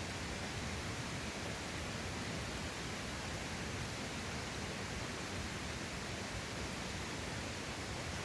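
Steady, even rushing noise of a mountain valley stream flowing.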